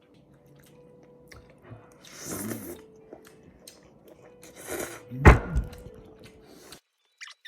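Eating at a table: quiet chewing with small clicks of cutlery, and a dull thud about five seconds in. The sound cuts off suddenly near the end.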